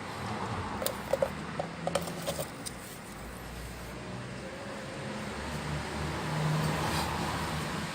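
A motor vehicle's engine hum swelling and then easing, with a handful of light clicks in the first few seconds.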